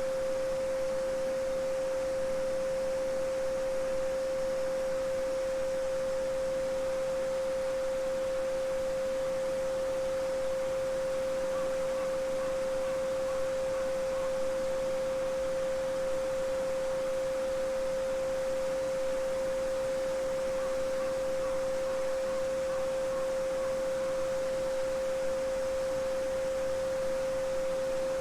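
A steady 528 Hz sine tone held without change over the soft, even rush of a babbling brook.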